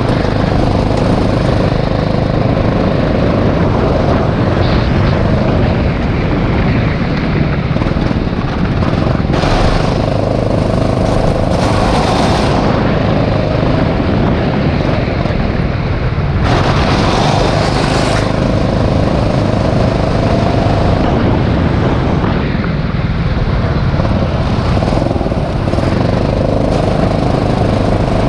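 Rental go-kart's small petrol engine running hard at racing speed, heard from on board the kart. Twice a louder rushing hiss rises over it for a second or two.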